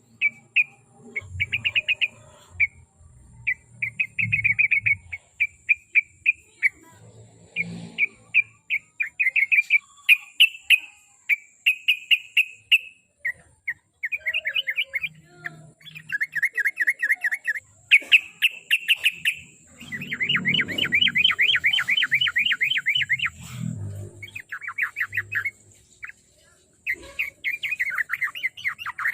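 Yellow-vented bulbul (trucuk) singing: phrase after phrase of rapid, repeated short notes, each run lasting one to three seconds with brief pauses between.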